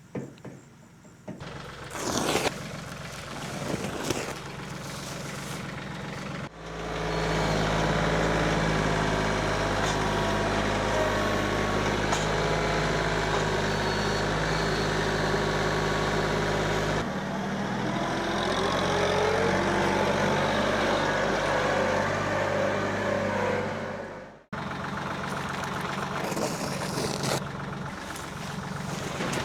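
Tractor engine running steadily, its pitch shifting partway through. It starts and stops abruptly, a few seconds in and again near the end, after quieter knocks and rustling.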